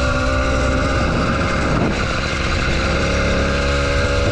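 80cc two-stroke bicycle engine kit running under way on a mountain bike, a steady engine note with a brief dip in pitch about two seconds in.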